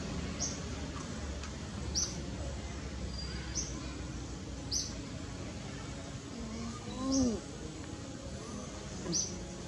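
A bird chirping: short high chirps repeating every second or so, over a steady low background hum, with one brief wavering lower call about seven seconds in.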